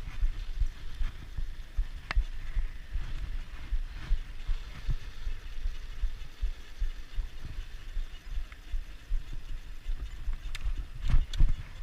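Ride noise from a bicycle in motion: wind rumbling on the microphone with irregular low knocks and rattles as the bike rolls over the road surface, and a few sharp clicks, about two seconds in and near the end.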